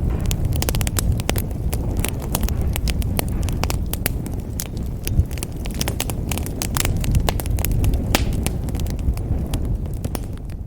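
Wood fire burning in a fireplace: a steady low rumble of the flames with frequent sharp crackles and pops of the burning wood.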